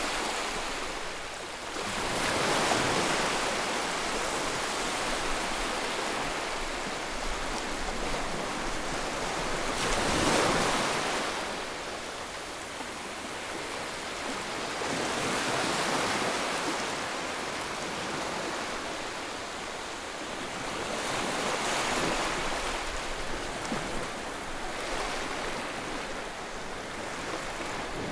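Ocean waves breaking and washing up on shore, a continuous rush of surf that swells louder every five to eight seconds as each wave comes in.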